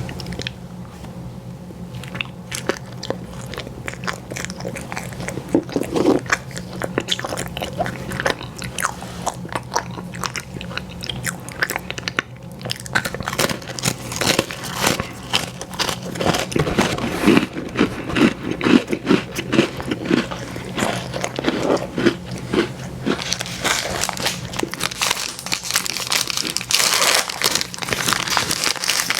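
Close-miked biting and chewing of ice cream sandwiches: many sharp, wet crunching and smacking clicks, getting denser and louder about halfway through, over a faint steady low hum.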